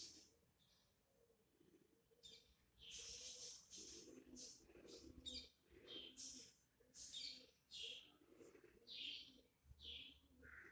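Small birds chirping: a string of short, high calls, about one or two a second, with a faint lower sound underneath.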